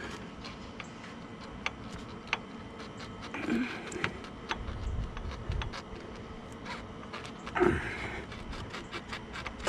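Scattered clicks, taps and scrapes of hands and tools working a radiator hose back onto its neck, with a few louder scuffs about a third of the way in and again near the end.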